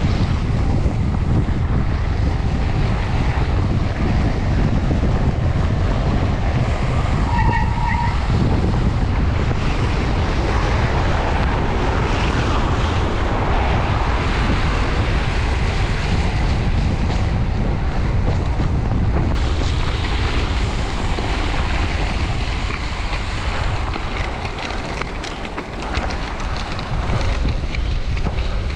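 Wind buffeting the microphone on a bicycle ridden fast through a snowstorm, a steady heavy rush throughout. A brief high tone sounds about eight seconds in.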